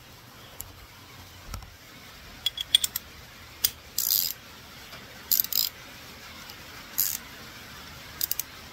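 Hand tools clinking and rattling in several short bursts as a socket extension is fitted to a 32 mm socket, with steady rain in the background.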